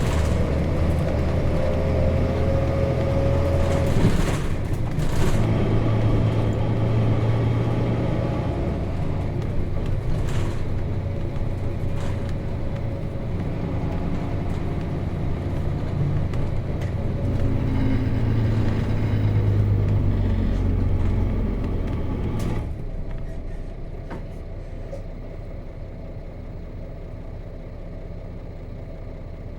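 Nissan Diesel FE6 straight-six diesel engine of a 1998 KC-RM211GSN bus under way with its manual gearbox, its pitch changing in steps and rising, with a brief hiss about four seconds in. About three quarters of the way through, the engine drops to a quieter, steady idle.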